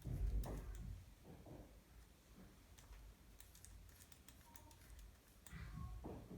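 Scattered light clicks and taps of a toothpick working grease onto the teeth of an RC truck's front differential gears, with a soft low knock at the start.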